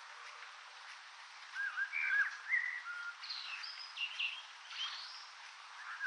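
Birds chirping and whistling: a run of short calls, some sliding up or down in pitch, from about a second and a half in until near the end, over a steady hiss.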